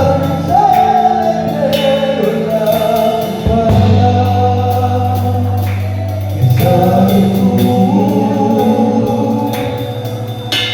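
Gospel worship song: voices singing a slow melody over instrumental backing with held bass notes and a steady ticking beat.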